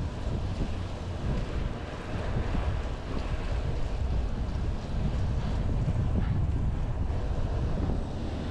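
Wind buffeting the microphone of a camera carried on a moving bicycle, a steady low rumbling rush.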